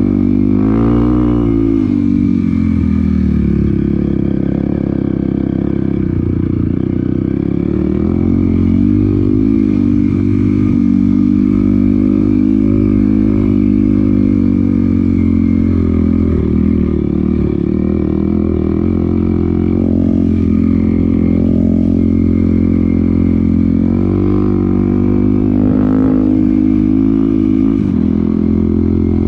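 Dirt bike engine running steadily while riding, its pitch rising and falling gently with the throttle.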